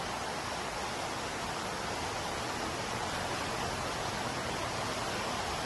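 Steady rushing water noise, an even, unbroken hiss with no distinct events.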